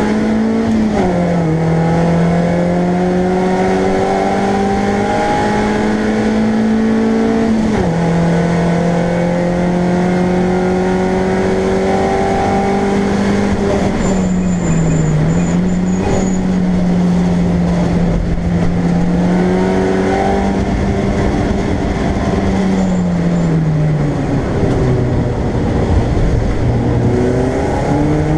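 BMW Compact race car engine heard from inside the stripped cabin, pulling hard through the gears. Its pitch climbs and drops sharply at upshifts about a second and eight seconds in, holds steady, dips briefly midway, falls away around two-thirds of the way through as the car slows, then climbs again near the end.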